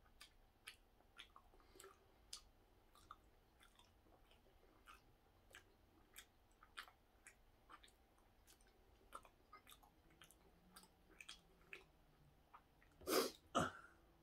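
Faint mouth sounds of a person chewing a soft hoppang bun: small wet clicks and smacks about twice a second. Near the end come two louder noises close together as another bite is taken.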